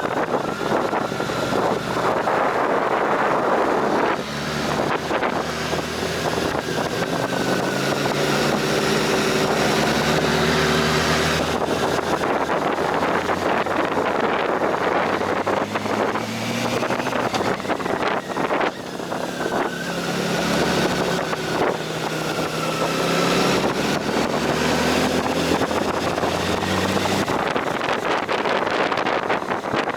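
Motorcycle engine pulling uphill, its pitch climbing in each gear and dropping at each shift, several times over, with heavy wind noise on the microphone.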